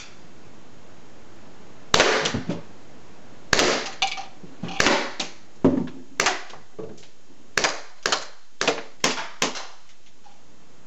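SOCOM Gear MEU SOC M1911 gas blowback airsoft pistol firing about nine sharp shots, each a gas crack with the slide cycling. The first few come a second or more apart, then a quicker string near the end as the magazine is emptied.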